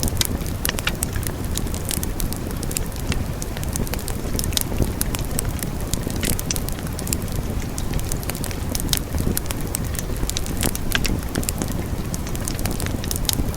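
Wood fire burning with a steady low rumble and frequent sharp crackles and pops of burning logs.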